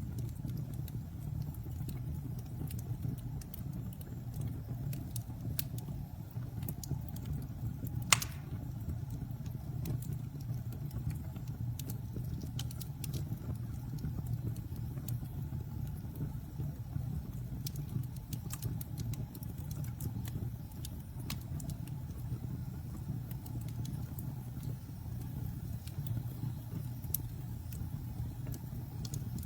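Wood campfire burning with a steady low rumble and scattered crackles and pops, one sharp louder pop about eight seconds in.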